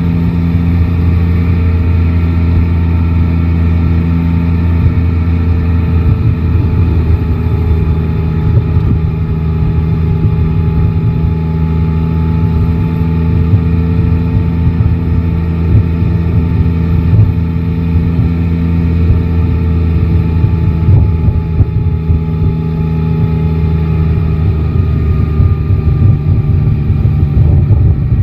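Yamaha Tracer 9 GT's 890 cc inline three-cylinder engine running while riding, its pitch drifting slowly up and down with no sharp revs, under heavy low rumble from wind and road noise.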